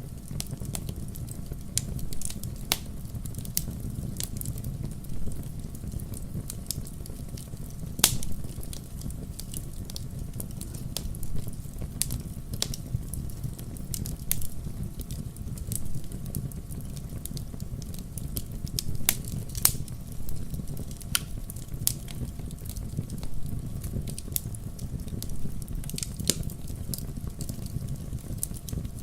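Wood fire in a fireplace crackling, with a steady low rumble of flames under irregular sharp pops and snaps; the loudest pop comes about eight seconds in.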